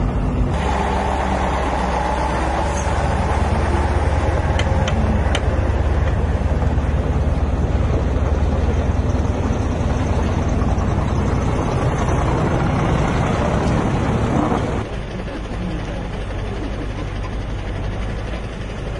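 Large engine running steadily with a low hum and machinery noise. The sound changes abruptly about half a second in, then drops to a quieter engine noise about 15 seconds in.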